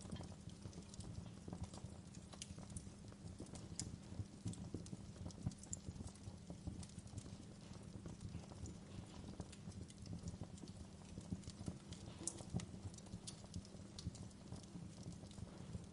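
Wood fire crackling, with irregular small pops and snaps over a low steady rumble.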